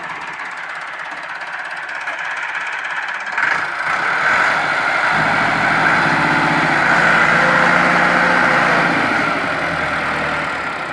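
Massey Ferguson 385 tractor diesel engine running hard under load, pulling a loaded trolley. The engine gets louder about three or four seconds in, picks up a deep pulsing note a little later, and eases off again near the end.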